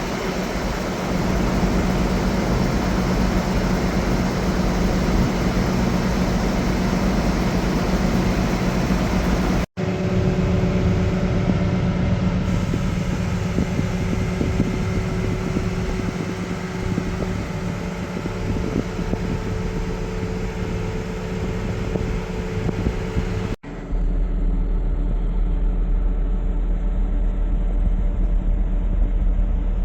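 A New Holland CX8.90 combine harvester's diesel engine running steadily, heard in three joined clips with abrupt cuts about ten seconds in and about two-thirds of the way through. The last clip has a heavier low rumble.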